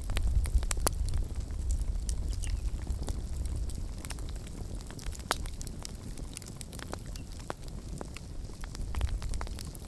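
Campfire burning, with irregular sharp crackles and pops of burning wood over a steady low rumble.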